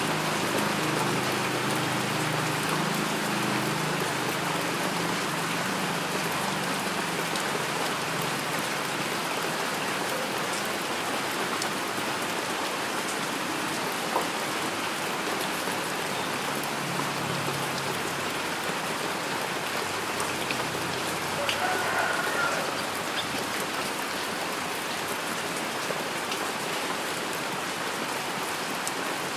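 Steady heavy rain falling: a dense, even hiss of drops on surfaces, with a few single louder drops standing out.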